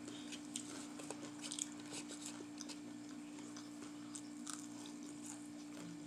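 A person chewing and biting food close to the microphone: soft crunches and mouth clicks scattered through, over a steady low hum.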